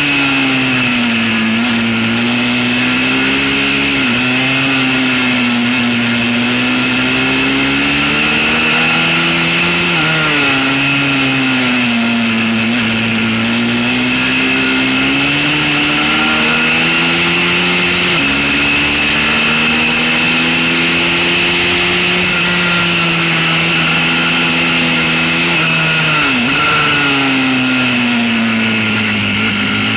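Single-cylinder pit bike engine run hard around a track, its pitch falling as it slows into corners and climbing again under throttle on the exits, with sudden steps in pitch at the gear changes.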